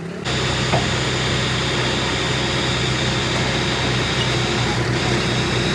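A machine running steadily with a constant low hum, starting abruptly just after the start.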